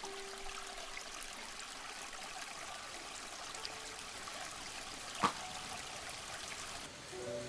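Steady rush of running water, like a small stream or trickle, with a single sharp click a little over five seconds in.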